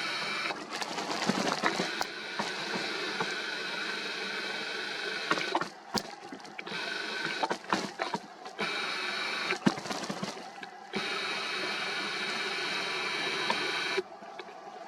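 A steady mechanical whirring hum with several fixed pitches, with scattered short clicks, and sudden drops and jumps in level about five, eleven and fourteen seconds in.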